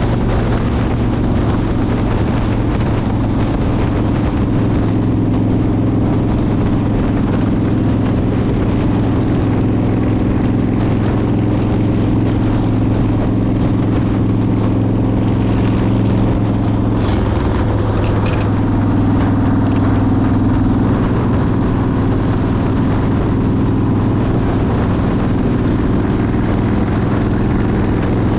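Motorcycle engine running steadily at cruising speed, with wind buffeting the microphone. A brief higher-pitched sound cuts through about two-thirds of the way in.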